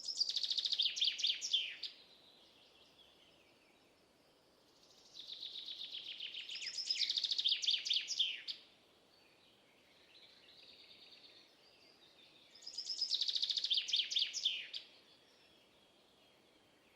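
A songbird singing the same song three times, each a fast run of high chirping notes lasting about two to three seconds, with a fainter, shorter phrase in between.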